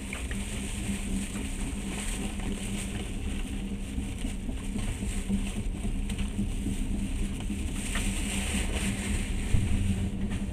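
Train noise heard from inside a passenger carriage: a steady low rumble and hiss with a steady hum, scattered faint clicks, and one louder thump near the end, as a freight train of open wagons rolls past on the next track.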